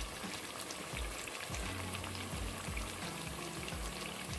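Churros deep-frying in a pan of hot oil: a steady sizzle with fine crackling, under soft background music.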